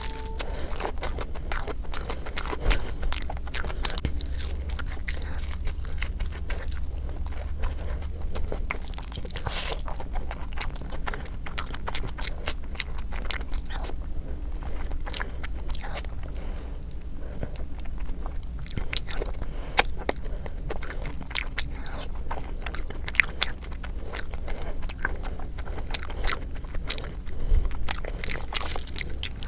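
A person chewing and biting food close to the microphone, with many quick sharp clicks and crunches throughout, over a steady low hum.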